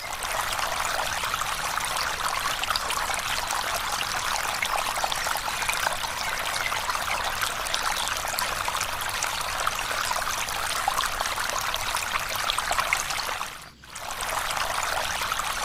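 Steady running water, breaking off briefly about fourteen seconds in and then starting again.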